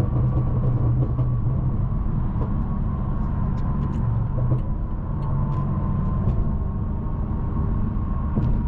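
BMW M550i's twin-turbo V8 and tyres on the road while cruising: a steady low drone with no revving.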